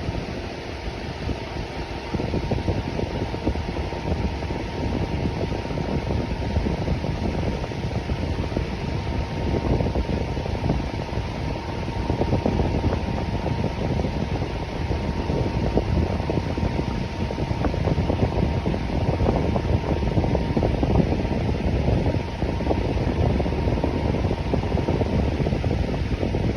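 Electric fan running steadily: an even rush of moving air, strongest in the low range, with a faint constant hum tone above it. It grows slightly louder about two seconds in, then holds steady.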